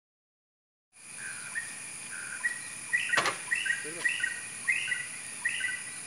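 A bird singing a short chirping phrase over and over, about once every half to three-quarters of a second, over a steady high-pitched ringing drone. A single sharp click comes a couple of seconds in.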